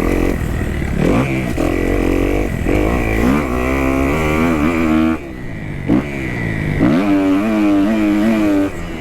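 Kawasaki KX250F's single-cylinder four-stroke engine revving hard in fourth gear, its pitch climbing in surges. About five seconds in the throttle snaps shut and the sound drops off, with one short blip, then the engine winds back up about a second and a half later.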